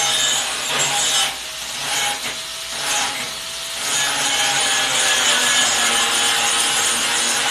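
Power grinder grinding metal, a rough continuous scraping with a faint whine. It eases off briefly twice before holding steady from about halfway.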